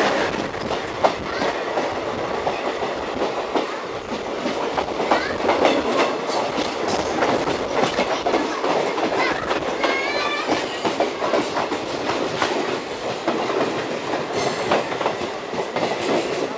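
Two passenger trains passing each other at speed on adjacent tracks: the coaches of the crossing train rush past close by, with rapid clickety-clack of wheels over rail joints. A brief wavering wheel squeal comes about ten seconds in.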